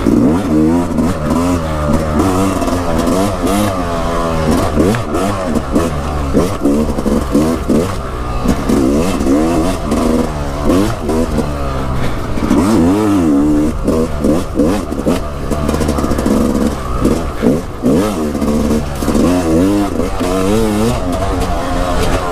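Dirt bike engine being ridden hard, revving up and falling back again and again in quick sweeps, with the throttle constantly opened and closed.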